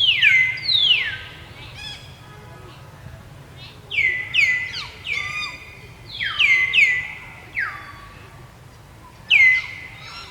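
High-pitched animal calls repeated in clusters of two or three. Each call slides quickly down and then holds a steady pitch for a moment.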